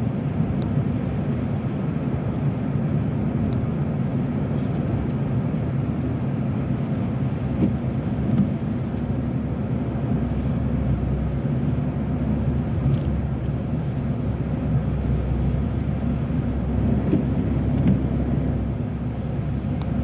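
Steady road and engine noise inside a moving car's cabin, mostly a low rumble, with a few faint ticks.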